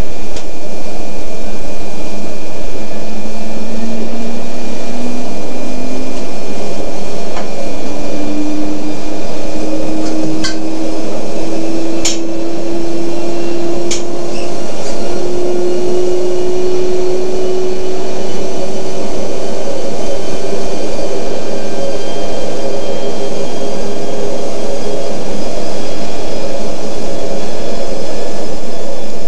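200 series Shinkansen pulling away, heard from inside the car: the traction motor hum climbs slowly in pitch, in small steps, as the train gathers speed over a steady running rumble. A few sharp clicks fall about halfway through.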